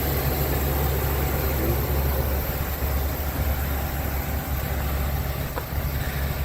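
2019 Ford E-450's 6.8-litre V10 engine idling steadily.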